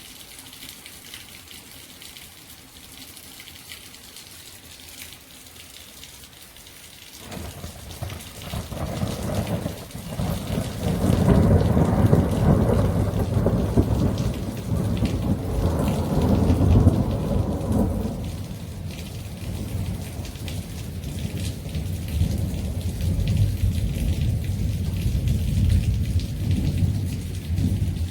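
Heavy rain hissing steadily during a thunderstorm. About seven seconds in, a long roll of thunder builds up, loudest around the middle, then slowly dies down to a low rumble under the rain.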